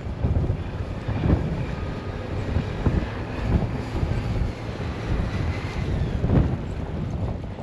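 Blizzard wind gusting against the microphone: a rough, low rumble that swells and falls unevenly.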